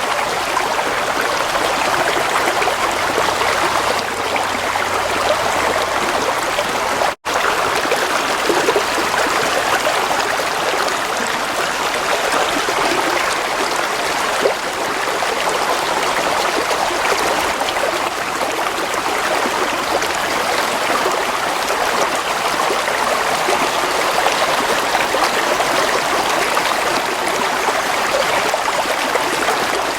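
Gentle flowing water, a stream running steadily with an even rushing trickle. It cuts out for an instant about seven seconds in.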